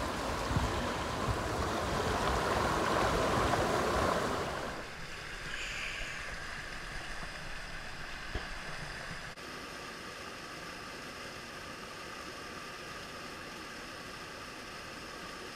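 Rushing water from a mountain waterfall and stream, loud for the first few seconds, then suddenly quieter about five seconds in and steadier and fainter again after about nine seconds.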